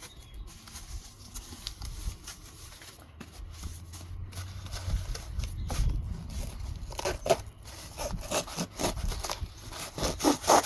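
Serrated Canary cardboard knife sawing back and forth through doubled-up cardboard, rasping stroke after stroke, the strokes coming quicker and louder in the last few seconds.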